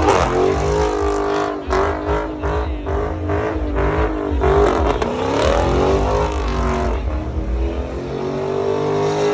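Car engine held at high revs during a burnout, its pitch wavering, dipping and climbing again as the car spins in tyre smoke, with a run of sharp crackles in the first few seconds.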